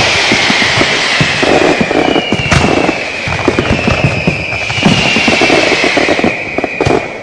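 Fireworks and firecrackers going off: dense, rapid crackling pops over high whistling tones that slowly fall in pitch, with one sharp bang about two and a half seconds in.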